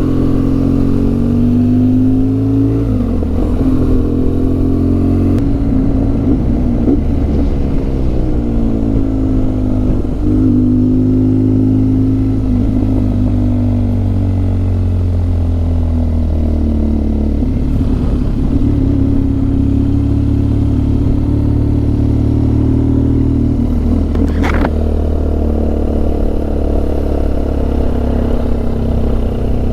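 Motorcycle engine running under way. Its pitch rises and falls repeatedly with throttle and gear changes. A single sharp click comes about 24 seconds in.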